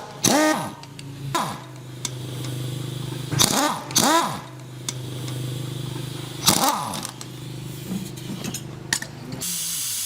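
An engine runs with a steady low hum, with several short rising-and-falling pitched sounds over it. The hum stops about nine seconds in and gives way to a hiss.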